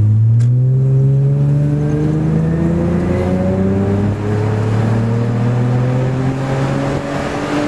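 Second-generation Acura TL's V6 through a Strömung cat-back exhaust, accelerating under load, its note rising slowly and steadily in pitch.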